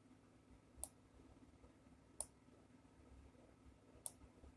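Three single computer mouse clicks, spaced a second or more apart, over near silence, as a map view is moved around.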